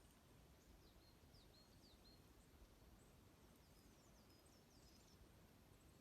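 Faint, high chirps of small songbirds: a run of short calls, each dropping in pitch, about a second in and another cluster around three to five seconds in, over a low, even background hiss.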